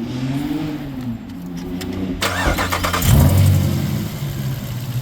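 A supercharged 6.2-litre V8, a Jeep Grand Cherokee Trackhawk's, is started: it cranks with a sharp burst about two seconds in, then catches into a loud, deep idle. Before the start, a lower engine note rises and falls in pitch.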